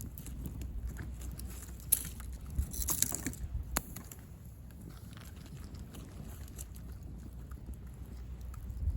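Driftwood campfire crackling, with a few sharp pops about two to four seconds in, over a low steady rumble.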